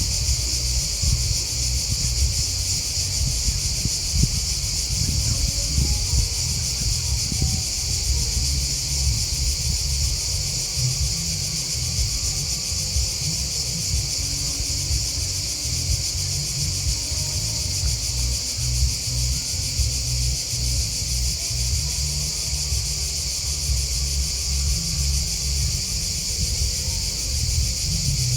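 Continuous, unbroken high-pitched chorus of singing insects, crickets and grasshoppers, with a low rumble underneath.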